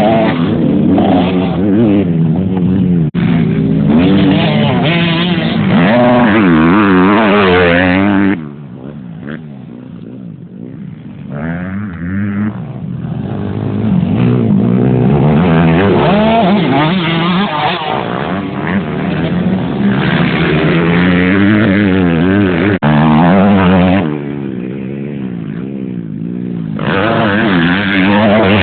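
Motocross motorcycles racing on a dirt track, their engines revving up and down through the gears. The engine noise drops away about eight seconds in and again near the end, then comes back up as bikes pass close again.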